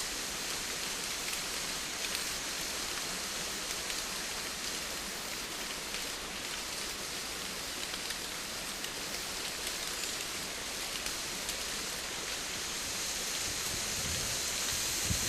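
Steady rain falling, an even hiss with scattered individual drop ticks. A low rumble swells in underneath near the end.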